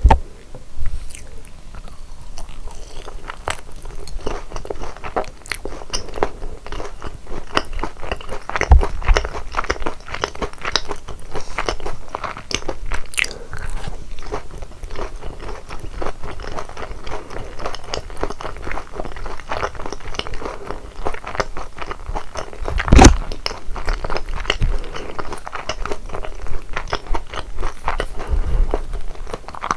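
Close-miked biting and chewing of crispy, sauce-coated boneless fried chicken: a steady run of crunching crackles, with two louder knocks about nine seconds in and again near the end.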